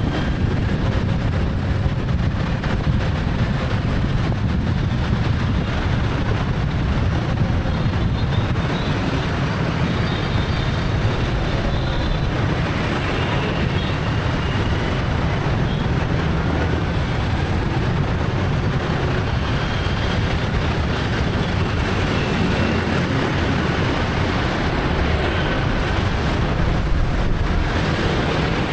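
Steady city traffic heard from a moving motorbike: the engines and tyres of the ride and the motorbikes and cars around it, a continuous low rumble with no breaks.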